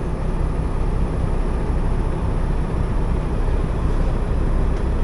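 Steady low rumble of a semi truck's engine and road noise, heard from inside the cab.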